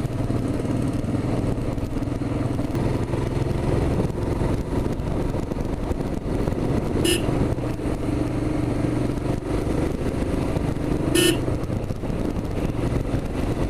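Royal Enfield Himalayan's single-cylinder engine running steadily under way, with two short horn toots about halfway through and again near the end.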